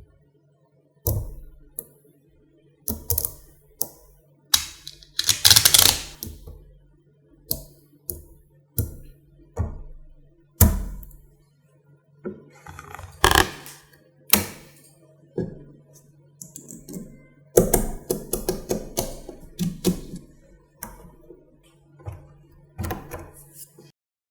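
Small magnetic balls snapping and clicking together as they are placed, in irregular sharp clicks with a few quick clusters. A faint steady low hum runs underneath and stops near the end.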